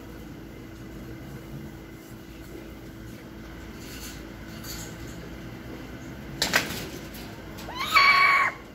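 A sharp knock, then about a second later a single short bird call that slides up at the start and then holds one steady pitch for about half a second before stopping.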